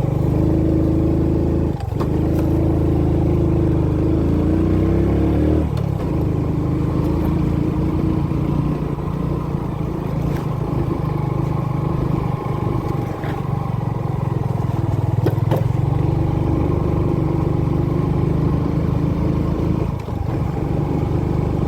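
Motorbike engine running while riding, its note shifting a few times as the throttle changes, with a couple of brief dips.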